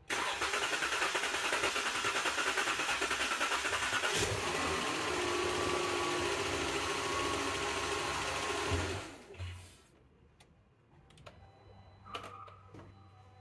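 Chrysler 3.6 L Pentastar V6 being started: the starter cranks it with a fast even rhythm for about four seconds before the engine catches and runs. It is the long crank that goes with a stored P0335 crankshaft position sensor circuit code and rough starting. About nine seconds in the sound drops away sharply to a faint low hum and a few clicks.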